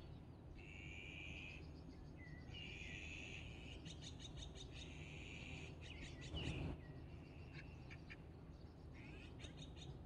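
Wild birds singing in the trees: one bird repeats drawn-out notes, each about a second long with short gaps between them, while other birds give quick high chips. Just past the middle comes a brief low rush of noise.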